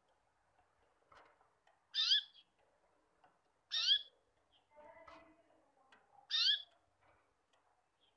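A bird calling: three short, high, repeated calls about two seconds apart, each a quick note that slides up and then down.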